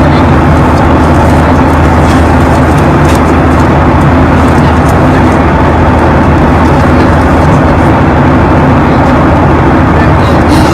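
Airliner cabin noise in flight: the steady, loud drone of the engines and airflow with a low hum underneath.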